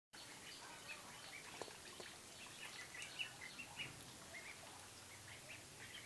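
Many small birds chirping faintly in short, scattered calls over a steady background hiss.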